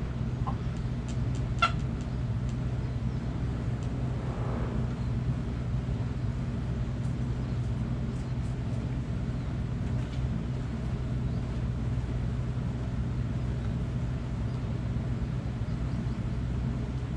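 A steady low mechanical hum of a running engine, holding an even pitch throughout. A few faint short sharp sounds come in the first two seconds.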